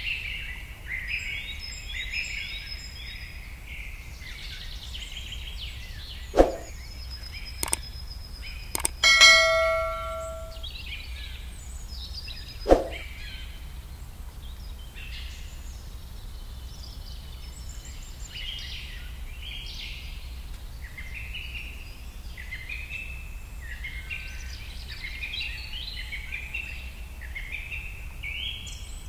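Small birds chirping and twittering throughout, with a few sharp clicks and a metallic ding that rings for about a second and a half a little after nine seconds in.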